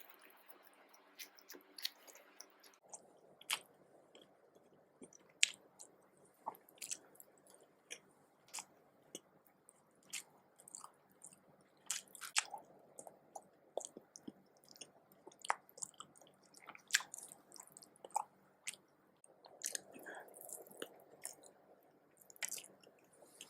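A person chewing and eating nasi dagang close to the microphone: quiet, irregular wet mouth clicks and smacks.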